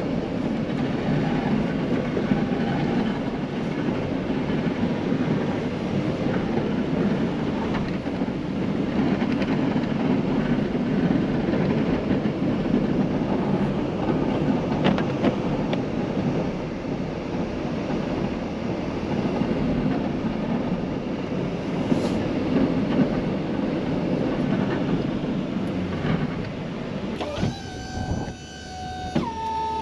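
Snow-plow vehicle working through snow: a steady, dense rumble of engine, plow and wind noise with scattered crackle. Near the end the rumble drops away and a few short steady tones sound.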